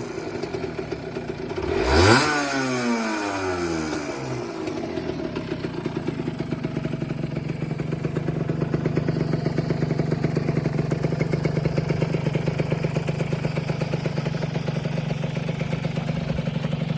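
Honda NSR50's 49 cc two-stroke single-cylinder engine, blipped once about two seconds in, its revs rising sharply and falling away, then settling into a steady idle.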